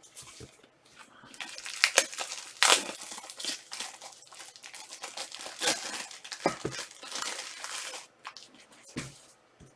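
Plastic wrapper of a trading-card pack being torn open and crinkled, crackling for several seconds with a couple of sharp rips near the start.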